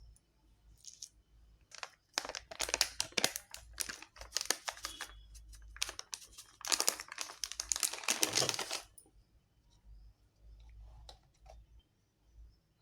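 Packaging being crinkled and torn open in two long bouts of rapid crackling, with a few faint clicks afterwards.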